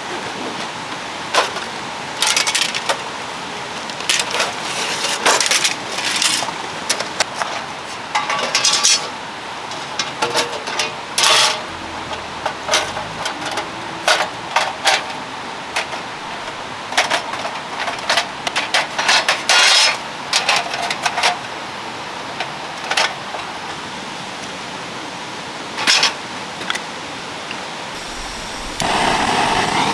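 Camping gear being handled and set up: scattered metallic clinks, clacks and knocks over a steady hiss of water. Near the end the background gets suddenly louder.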